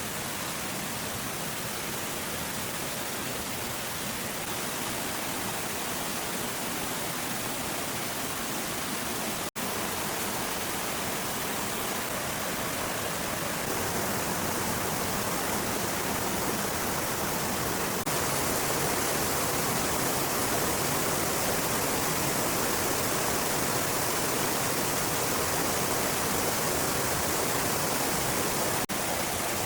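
A steady, even rushing noise, like outdoor water or rain. It drops out for an instant about a third of the way in and again near the end, and grows a little louder midway.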